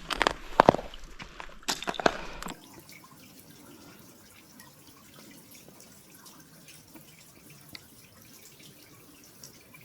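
Water dripping slowly at a frozen waterfall, faint, with small scattered ticks. During the first two and a half seconds a few sharp crunches and knocks sound over a low rumble, then they stop abruptly.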